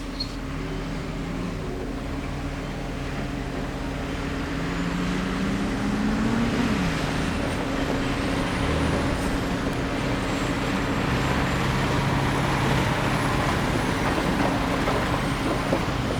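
Engines of maintenance-of-way track equipment, a tie crane and a hi-rail boom truck, running as they approach on the rails. The engine note rises twice and the sound grows louder partway through.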